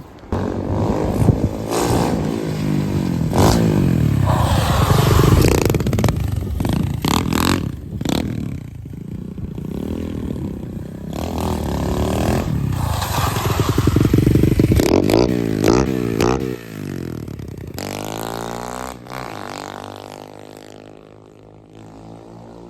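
SSR 125 pit bike's four-stroke single-cylinder engine, newly geared with a 16-tooth front sprocket, revving hard as the bike is ridden, its pitch rising and falling through the gears in two loud surges. Near the end the engine note drops in pitch and fades as the bike rides away.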